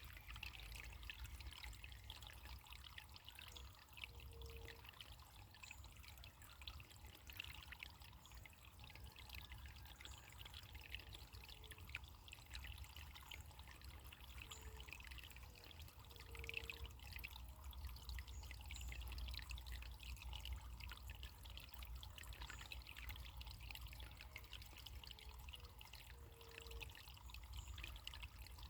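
Faint running water trickling, like a small stream, with a steady low rumble underneath.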